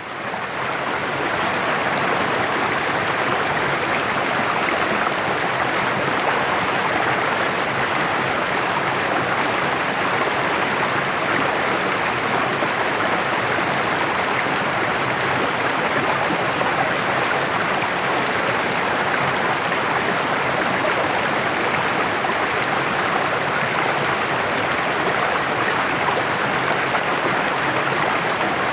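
A small rocky mountain creek babbling over stones in a steady rush of water, fading in over the first second.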